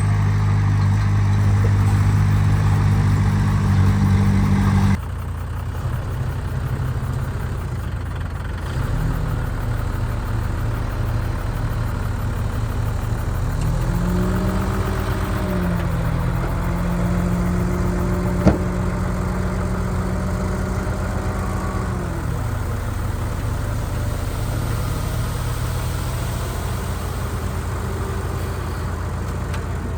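Diesel engine of heavy earthmoving machinery running; the engine sound changes abruptly about five seconds in, and from about the middle the engine revs up, holds and drops back. One sharp click a little past halfway.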